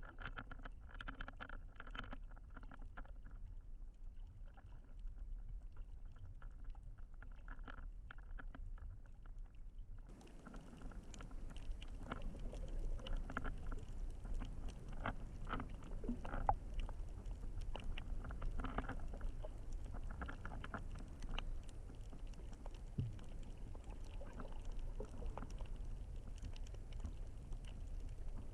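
Muffled sound through a GoPro's waterproof housing while snorkeling: a low rumble with scattered clicks and crackles. About ten seconds in the sound turns brighter and the crackling grows louder.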